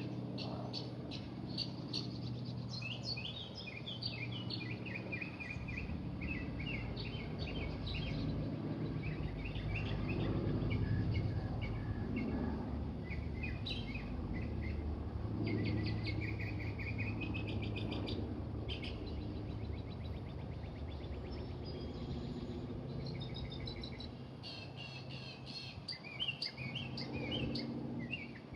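Small birds chirping and twittering in quick repeated phrases, over a low rumble that swells around the middle.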